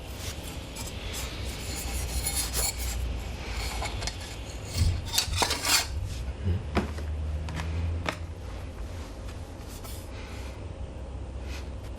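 Handling and fitting together the parts of a metal fire-pit stand: rubbing and scraping with scattered light clicks and knocks, busiest about five to six seconds in.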